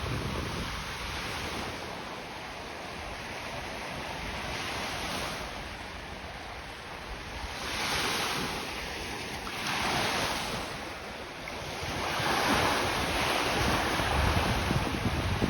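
Lake Ontario waves breaking and washing onto the beach, swelling in several louder surges in the second half, with wind rumbling on the microphone.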